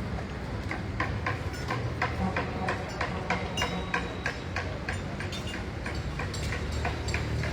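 Construction-site noise: a rapid, uneven series of sharp knocks, about three a second, over a steady low rumble.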